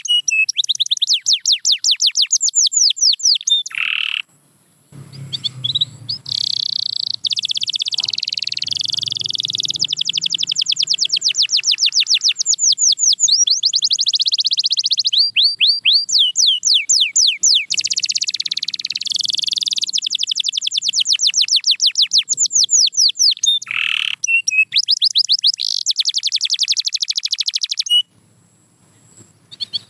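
Canary singing long song phrases of fast trills: rapid strings of repeated high notes, with short pauses about four seconds in and near the end.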